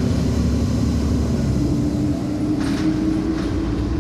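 City bus running, heard from inside: a steady low drone with a whine that rises slowly in pitch, and a few light clicks in the second half.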